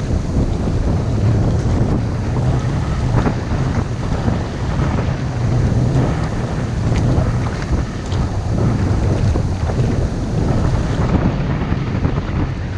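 Strong wind, about 15 mph, buffeting the microphone as a loud, steady low rumble, with light splashes of water around an inflatable kayak.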